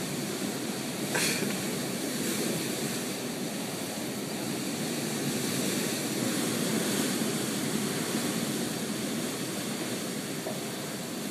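Military rescue truck running with a steady, even rumbling noise, and a single click about a second in.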